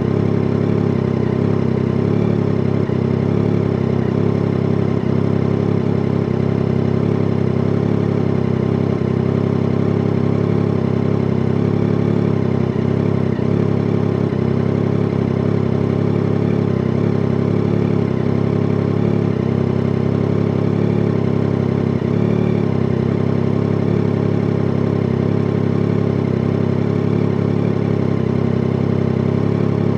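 Yamaha Tracer 9 GT motorcycle's 890 cc inline three-cylinder engine running at a steady, unchanging speed, with no revving.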